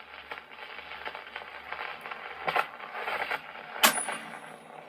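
Surface noise of a shellac 78 rpm record after the music has ended: a steady hiss and crackle with scattered clicks. The sharpest click comes near four seconds in.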